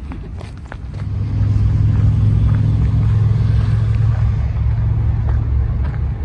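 A motor vehicle passing close by: a low engine rumble swells about a second in, holds for a few seconds, then fades.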